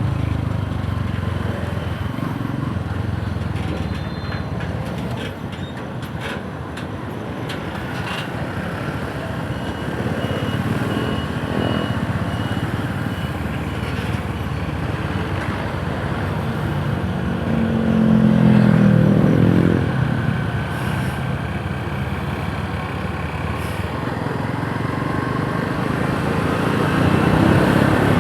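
Yamaha YTX 125 cafe racer's single-cylinder four-stroke engine running under way, with road and wind noise. About two-thirds of the way in it gets louder, with a pitch that rises and falls.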